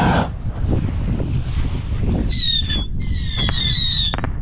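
Wind buffeting the microphone, then two high whistling fireworks about two seconds in, each a falling whistle lasting under a second, followed by a few sharp pops near the end.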